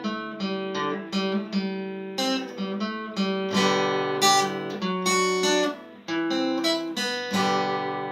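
Acoustic guitar strummed in a steady rhythm as an instrumental break between sung verses, with a brief dip about six seconds in.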